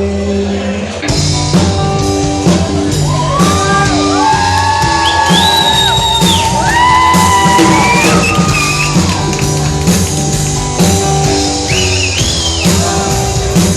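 Live rock band playing an instrumental passage: the drums and bass come in hard about a second in, under a lead electric guitar playing long, sustained bent notes with vibrato.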